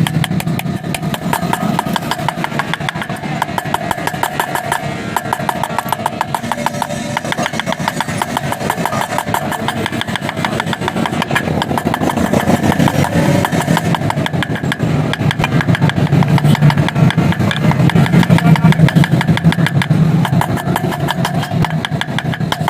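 A motorcycle engine running, with a rapid, even train of firing pulses. It grows louder for a few seconds in the second half, then eases back.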